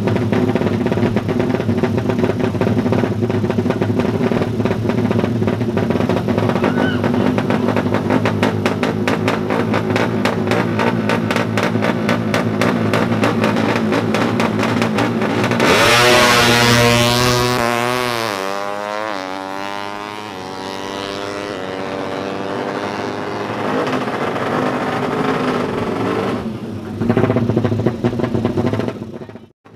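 Tuned 200cc underbone drag motorcycle engine running with a rapid, even firing pulse. About halfway through it is opened up at full throttle with a loud burst, then drops in pitch and fades as it pulls away. It revs loud again near the end.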